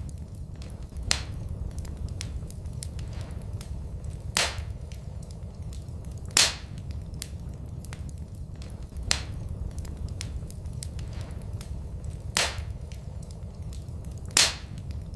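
Wood fire burning in a fireplace: a steady low rumble of flame with faint crackles, and six sharp pops of the burning wood spaced a few seconds apart.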